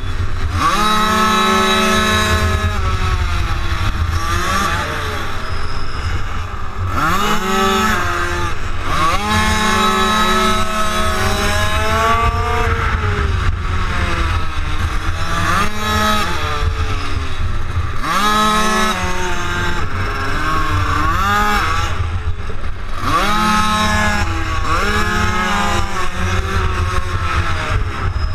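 Minimotard engines revving hard through the gears and backing off into corners, the pitch climbing and dropping again and again every two to three seconds, over a steady low rumble.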